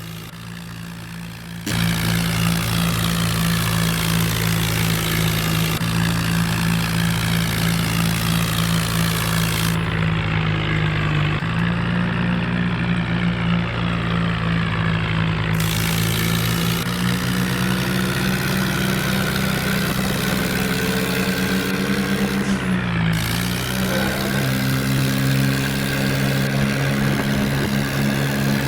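Diesel engine of a 5911 tractor running steadily under load while pulling a fully loaded trolley. It gets louder about two seconds in, and its pitch dips briefly and then recovers about 23 seconds in.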